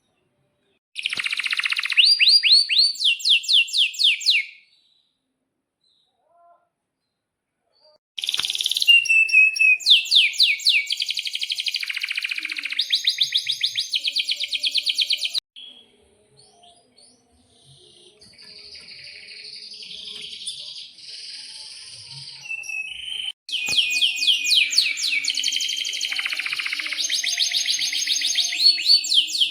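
Domestic canary singing in long phrases of fast, rolling trills of repeated notes, loud and high-pitched. A short phrase is followed by a pause of a few seconds, then a long phrase, softer song in the middle, and loud song again near the end.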